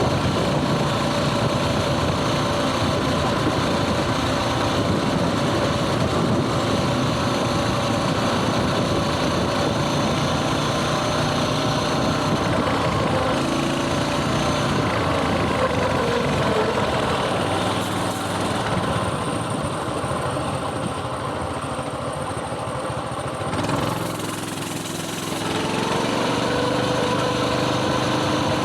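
Coleman mini bike's small single-cylinder engine running while riding. It eases off and drops in pitch about two-thirds of the way through, then picks up again with a rising pitch near the end.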